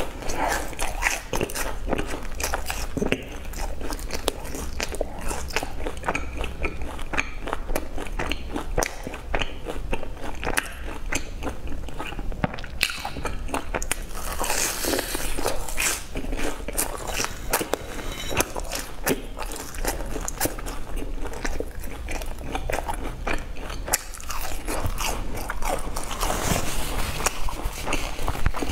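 Close-miked eating of fried sesame balls: the sesame-coated crust crunching under the teeth and wet chewing, a dense run of small crackling clicks, with louder bites about halfway through and near the end.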